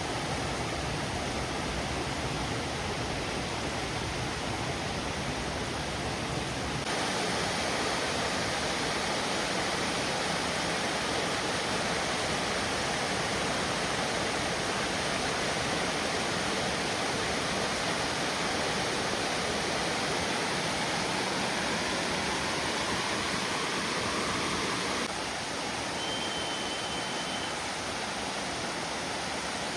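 Waterfall rushing: a steady roar of falling water that shifts abruptly twice, louder about a quarter of the way in and a little quieter near the end. A short high steady whistle sounds briefly near the end.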